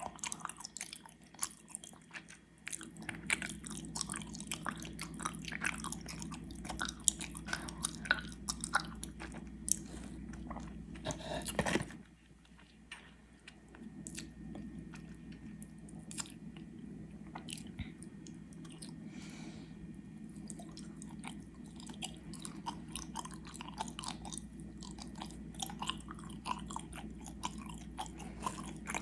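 Close-miked chewing of gummy worms: wet, sticky mouth sounds and irregular soft clicks, with a louder stretch just before the middle and a short pause after it.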